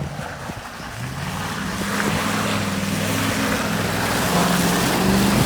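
Truck engine pulling under load and getting steadily louder as it drives through a muddy water hole, with water splashing and spraying from the tyres.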